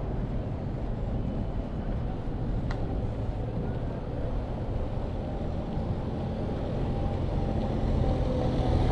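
Steady low engine rumble of a motor vehicle, with faint held tones in it, growing louder near the end; a single short click about two and a half seconds in.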